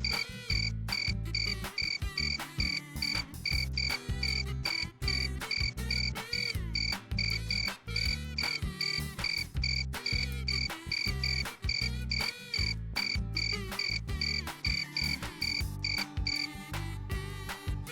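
Field crickets chirping at night in a steady run of quick, high, pulsed chirps, over a low rumble; the chirping stops shortly before the end.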